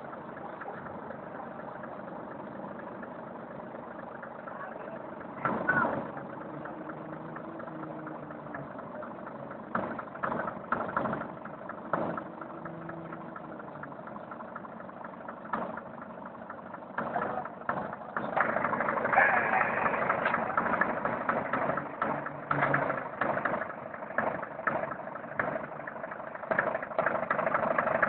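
Vehicle engine running steadily during a tow out of mud, getting louder about two-thirds of the way in as the pull takes up, with scattered knocks and clunks.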